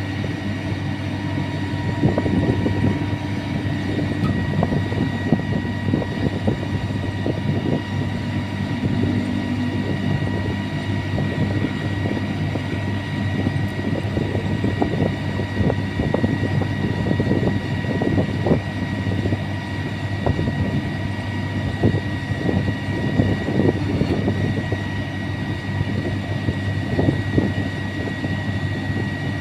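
Sany 155 rotary drilling rig working: its engine running steadily with a constant high whine, and irregular knocks and clatter throughout.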